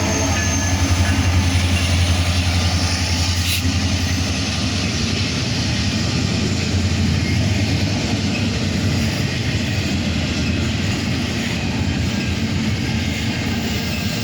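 Intermodal freight train rolling past at track speed: a steady rumble of wheels on rail with a deep low hum, easing off slightly over time.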